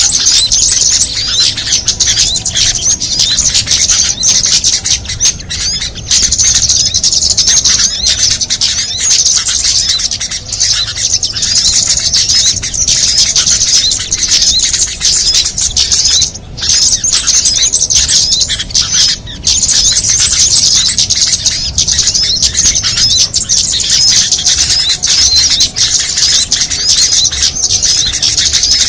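Bird-lure recording of many small songbirds calling at once: a dense, unbroken chatter of high-pitched chirps and trills layered over one another, dipping briefly twice in the middle.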